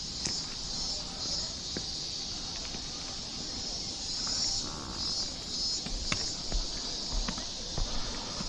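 Cicadas singing in a steady, high, pulsing chorus. Footsteps come in from about six seconds in as scattered clicks and low thumps.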